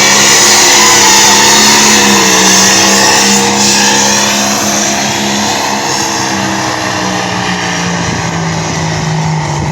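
Engine of a pulling vehicle held at steady high revs under heavy load as it drags the weight sled, its pitch dipping slightly over the last few seconds.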